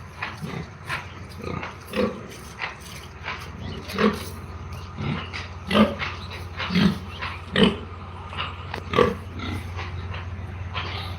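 Pigs grunting and squealing in a string of short, irregular calls, loudest in the middle, over a steady low hum.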